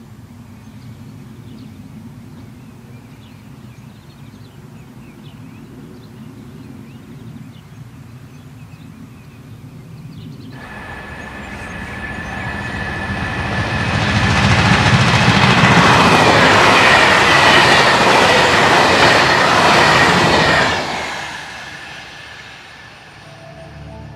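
DB class 612 tilting diesel multiple units in triple traction, a low diesel rumble at first, then passing close at speed from about ten seconds in and falling away sharply near the end. The wheels clatter from flat spots ground into the treads by locked-wheel braking on slippery autumn rails.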